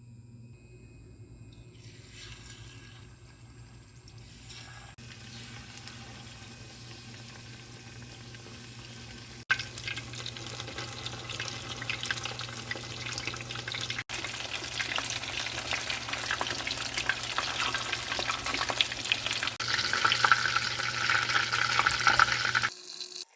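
Food sizzling and crackling in oil in a frying pan, getting louder in steps through several short cuts, over a steady low hum.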